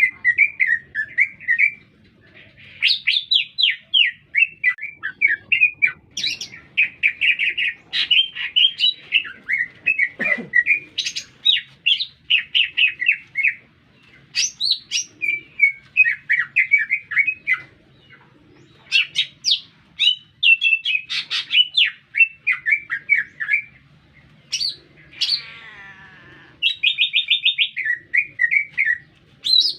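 Cucak ijo (green leafbird) singing persistently in full voice: long runs of rapid, varied chattering and whistled notes broken by short pauses, with one harsh buzzy note near the end.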